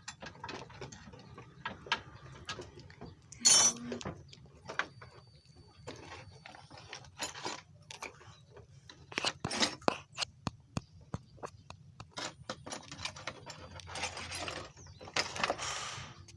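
Irregular clicks, clinks and knocks of hand tools and metal parts being worked on during a machine repair, with a louder, longer noisy stretch near the end.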